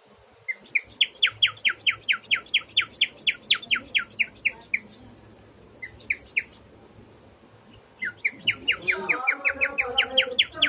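A songbird singing long runs of quick, repeated down-slurred whistled notes, about four a second. It sings two bouts with a pause of a couple of seconds between them.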